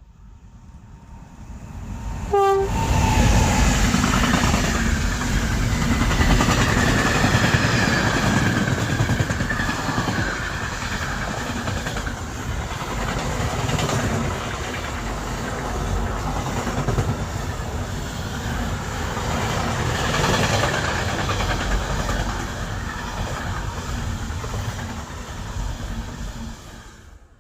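Train passing close by at speed, its wheels and running gear rumbling and clattering. A short horn blast sounds about two and a half seconds in, as the noise jumps up.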